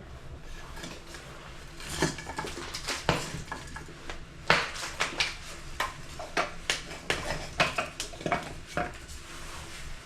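Kitchen pots and utensils clattering: irregular clinks and knocks, several in quick succession.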